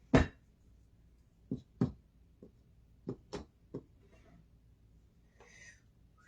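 Kitchen items being handled: a thud, then a quick run of light knocks and clicks, then a brief rustle near the end.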